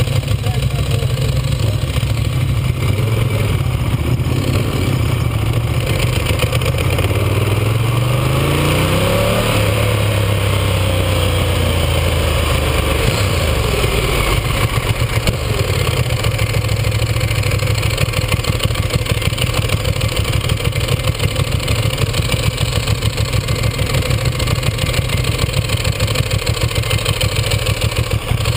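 Ducati 1198S's L-twin engine idling, then its revs rise for a couple of seconds about eight seconds in as the bike pulls away, fall back, and it runs on steadily at low revs as the bike rolls slowly.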